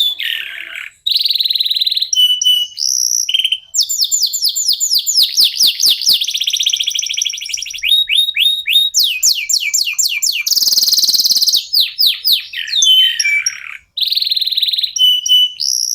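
Domestic canary singing a long, varied song of rapid trills and quickly repeated down-sweeping whistled notes, with a harsh buzzy rattle about eleven seconds in.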